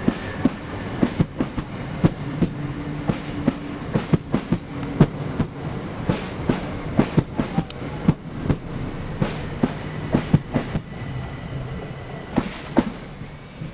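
A Class 375 Electrostar electric multiple unit running along the platform, its wheels clicking sharply over rail joints and points, a few clicks a second, over a steady low hum. The clicking thins out and the sound eases near the end.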